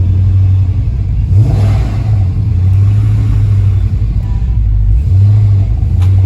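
Car engine running loud with a deep steady drone, revving briefly about a second and a half in and again near the end.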